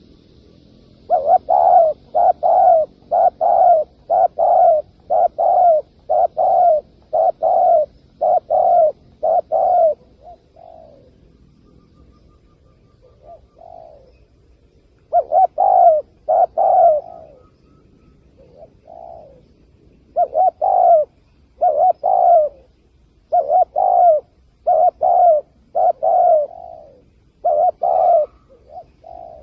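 Spotted dove cooing: a string of short, low coos, roughly one a second. A pause of a few seconds in the middle holds only a few faint coos, then the cooing resumes.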